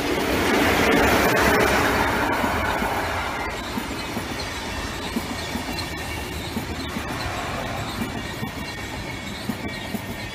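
Passenger coaches rolling past on the rails, their wheels clicking over rail joints and points, loudest about a second in and then easing off as the last coaches go by. A faint high squeal from the wheels sounds under the rolling.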